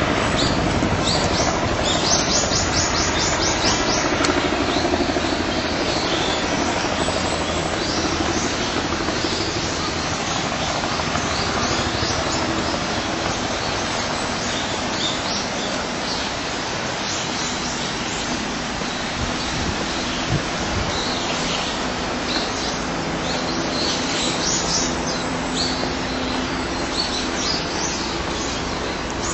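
Steady rush of water from a stream or waterfall in a ravine, with small birds chirping over it in short bursts, about a second in and again near the end.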